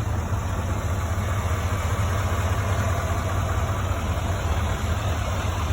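2019 Chevy 2500 turbo-diesel truck engine idling, a steady low drone with no change in speed.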